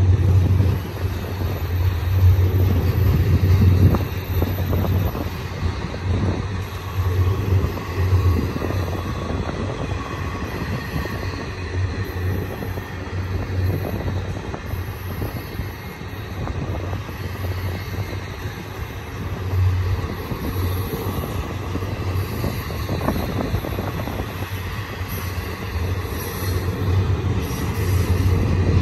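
Loaded double-stack container well cars of a freight train rolling past: a steady rumble of steel wheels on rail, rising and falling a little, with faint wheel squeal at times.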